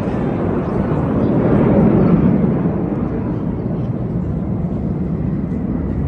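Military aircraft flying over, a steady rushing engine noise that swells louder about two seconds in and then slowly eases off.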